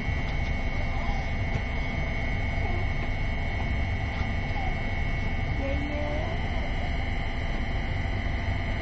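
Passenger train carriage interior while the train runs: a steady, even rumble with a thin high whine running through it.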